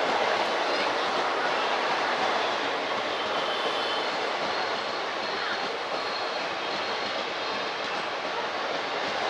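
A train running on the rails: a steady rush of wheel-and-track noise that eases slightly toward the end.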